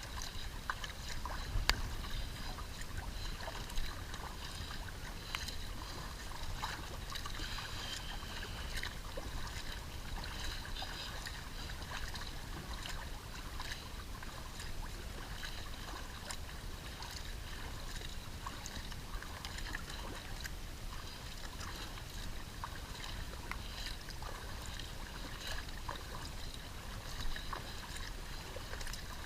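Kayak paddling: the paddle blades dip and splash in the lake, and water trickles and drips off them in a steady run of small splashes, with an occasional sharper click.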